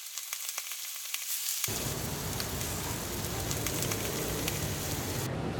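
Food sizzling on a hot pan or grill, a dense crackle; about two seconds in, a fuller low rumble of background noise comes in under it.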